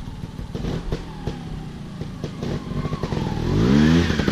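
Off-road motorcycle engine running at low revs, then revving up sharply about three and a half seconds in.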